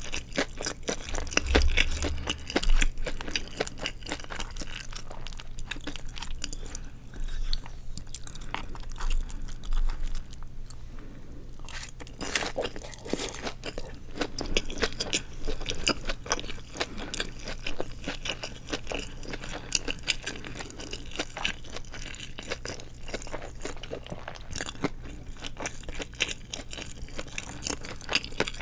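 Close-miked crunching and chewing of deep-fried seaweed rolls (nori wrapped around glass noodles), a dense run of crisp crackles as the fried crust is bitten and chewed.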